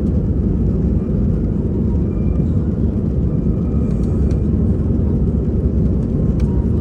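Steady low rumble of an airliner's engines and rushing air, heard from inside the cabin as the plane climbs after takeoff.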